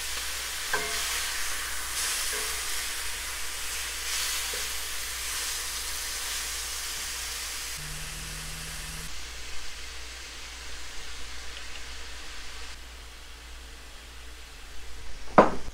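Ground beef sizzling as it browns in a hot skillet, a steady hiss. A sharp knock sounds near the end.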